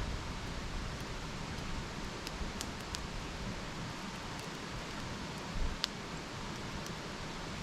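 Wood campfire burning: a steady hiss with scattered crackles, and one sharper pop about six seconds in.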